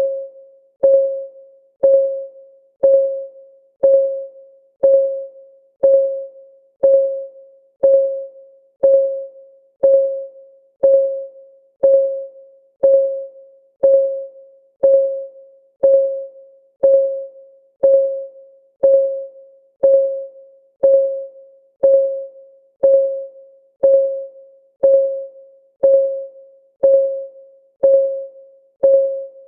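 Clock ticking of a countdown timer: one short, pitched tick each second, each dying away quickly, steady and even.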